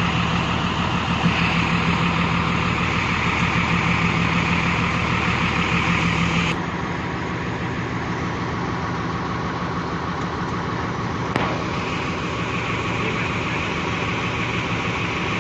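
Heavy diesel engine of a six-wheel dump truck stuck in sand, running steadily under load with a strong low hum. About six and a half seconds in the sound changes abruptly to a quieter steady engine noise, and there is a single click near the end.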